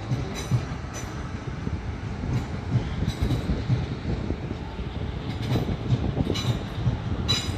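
A train running along the tracks: a continuous rumble of wheels on rail with irregular knocks, and several brief high-pitched wheel squeals.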